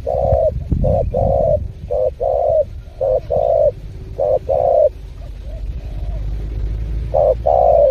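Spotted dove cooing: repeated phrases of short and longer coos, softer for a moment around the middle before a loud phrase near the end.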